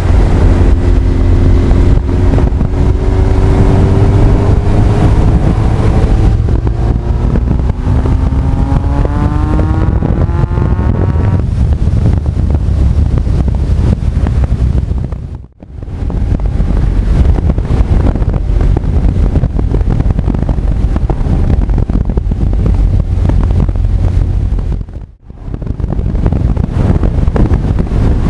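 Honda CB1300 Super Bol d'Or's inline-four engine and heavy wind noise on the action camera's microphone while riding. The engine note climbs steadily for about the first ten seconds as the bike accelerates, then is buried under the wind rush. The sound briefly drops out twice, about halfway through and near the end.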